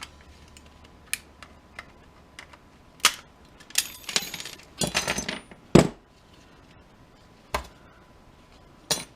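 Small metal parts and tools clicking and clinking as they are handled and pried apart, with a quick flurry of clinks a few seconds in and a heavier knock just after.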